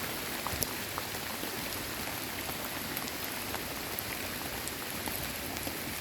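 Steady rainfall, a constant hiss with scattered single drops ticking close by.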